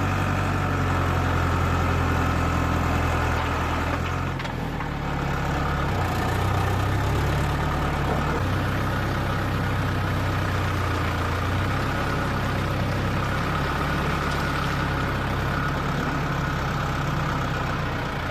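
A diesel engine on heavy machinery running steadily. Its pitch shifts down and back up a few times as the throttle or load changes.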